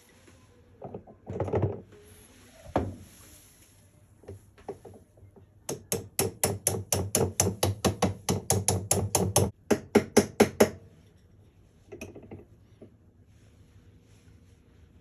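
Hand-tool work on a washing machine under repair: a few scattered knocks, then a quick run of about twenty sharp clicking taps, roughly five a second, lasting about five seconds.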